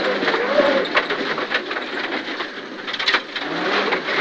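Ford Escort Mk2 rally car heard from inside the cabin at low revs through a hairpin. Its engine note rises and dips, and gravel rattles and clatters against the underside and wheel arches.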